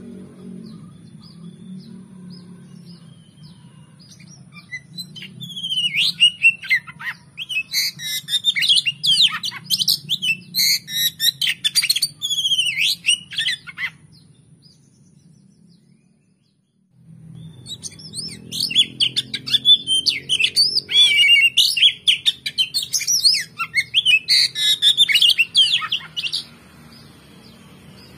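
Oriental magpie-robin (kacer) singing in two long bouts of fast, varied, rapidly changing notes, cut by a moment of total silence about halfway through. A low steady hum runs underneath.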